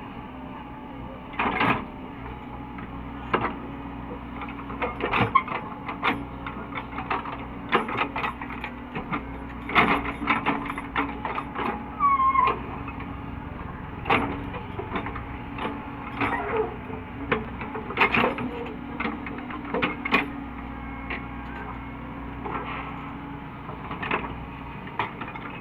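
Caterpillar 307E2 mini excavator's diesel engine running steadily, with frequent irregular sharp clanks and knocks and a brief squeal about twelve seconds in.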